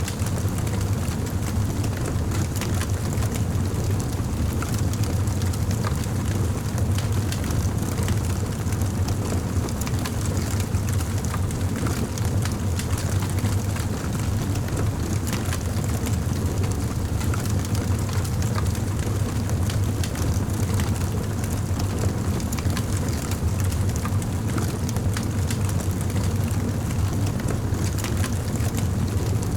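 Campfire burning: wood crackling with many small, irregular pops over a steady low rumble.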